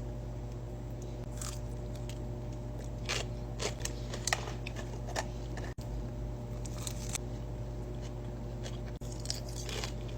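A person biting and chewing crunchy food close to the microphone: sharp, irregular crunches, thickest in the middle and again near the end, over a steady low hum.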